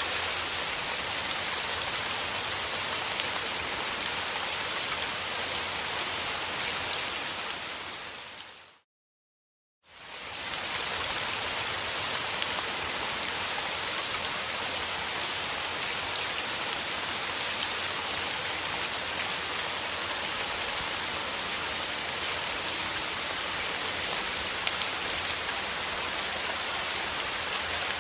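Steady rain falling on surfaces, a dense hiss with many small drop ticks. About eight seconds in it fades out to silence for about a second, then fades back in, like the seam of a looped recording.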